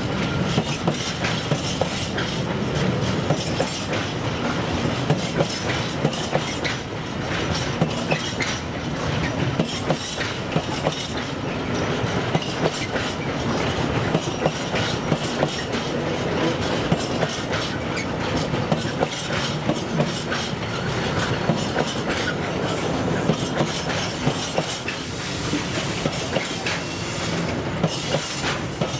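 Freight train wagons rolling past: a steady rumble with the wheels clicking over rail joints again and again.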